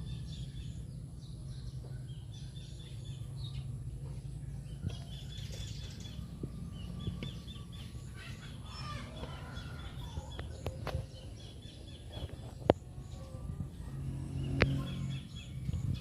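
Small birds chirping in short, repeated high notes over a steady low hum, with a few sharp clicks in the second half.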